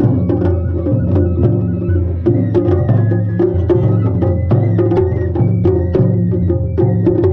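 Traditional Japanese festival music for a kirin dance: drumming with rapid, sharp wooden clicks over sustained low tones and a thin high melodic line.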